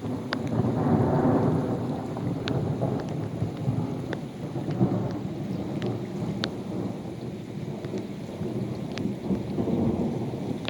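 Thunder rolling in a long low rumble over steady rain, swelling loudest about a second in. A few sharp ticks from raindrops striking a nearby surface are scattered through it.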